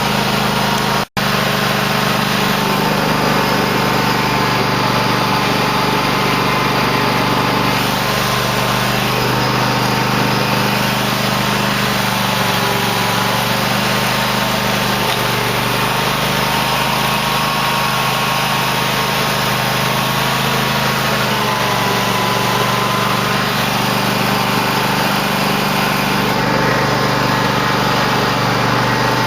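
Cub Cadet LT1050 lawn tractor's engine running steadily while it plows snow, with a very short dropout in the sound about a second in.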